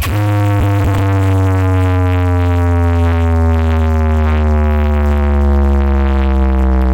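Loud sound system playing one long electronic tone that slowly falls in pitch over a heavy, steady bass drone.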